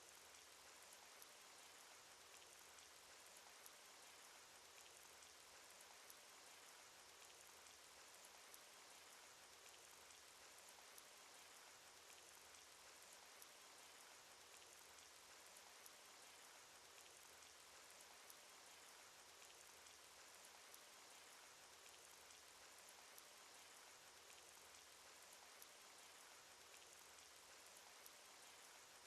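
Soft, steady cartoon rain sound effect: an even hiss of rainfall with scattered single drops ticking through it.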